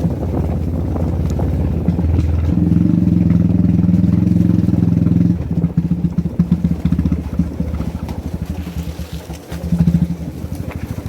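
Motorcycle engine running, louder and steady for about three seconds starting two and a half seconds in, then dropping back to an uneven, pulsing note with a brief surge near the end.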